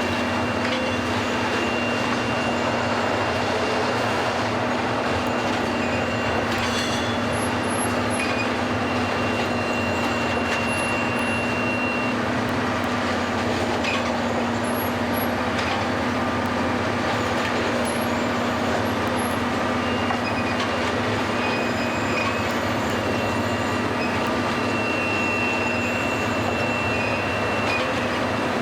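Track renewal train working slowly along the line: a steady machinery drone with a constant hum, a thin high-pitched squeal through the first part and again near the end, and a couple of brief clanks.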